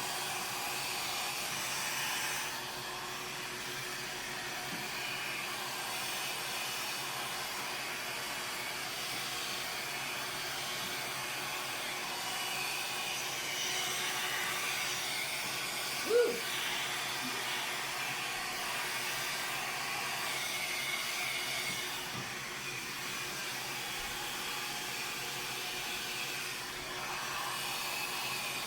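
Hair dryer blowing steadily, used to push poured acrylic paint across the surface in a Dutch pour; its sound shifts a little as it is moved. A brief sharp sound stands out about 16 seconds in.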